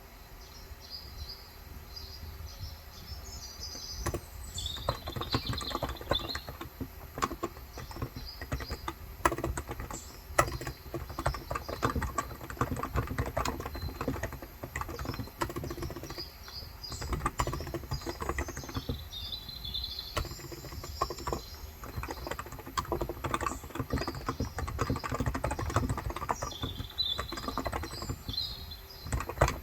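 Typing on a Cox Endeavour electro-capacitive keyboard with 35 g switches: a dense run of soft key clacks, light for the first few seconds, then busier from about four seconds in. Birds chirp in the background in several short bursts.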